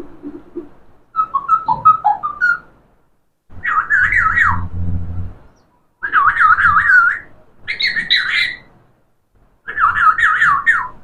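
Pet parrot whistling in short warbling phrases, the pitch wavering quickly up and down: five bursts of one to two seconds each, with brief silences between them.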